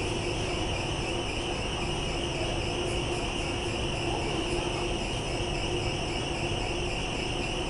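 Steady, unchanging background noise: a constant hiss with a faint steady hum and no speech.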